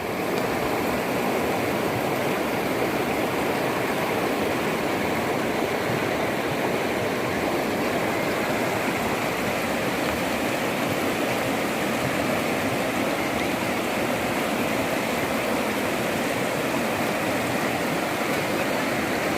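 Floodwater rushing steadily, a constant churning noise of fast-flowing, swollen river water.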